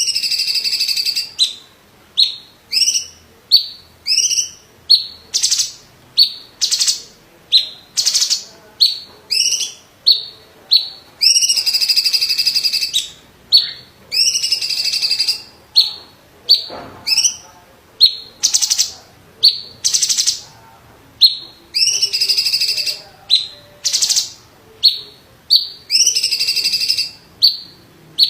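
Cucak ijo (green leafbird) of the cungkok type singing: loud, sharp, high notes repeated about once or twice a second, broken by several longer held notes of a second or so, each with a rising start.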